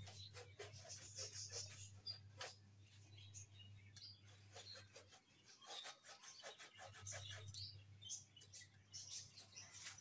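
Faint chirping of small birds mixed with scattered light clicks and taps. A low steady hum runs underneath, dropping out about halfway through and returning near the end.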